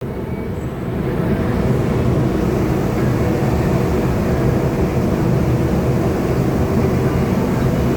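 Heavy diesel engine running with a steady low rumble, growing louder over the first second or two.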